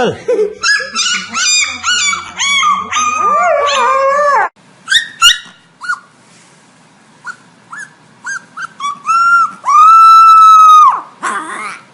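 A dog vocalising, or "talking". For the first four seconds or so it makes a run of wavering, pitched howl-like whines, then short yips and whines. About ten seconds in comes one long, steady high-pitched note, the loudest sound.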